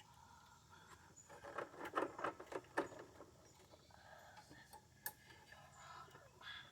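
Irregular light clicks, taps and rattles of metal parts and hand tools being handled while taking a lawn mower engine off its deck, busiest in the first half, with a sharp click about five seconds in.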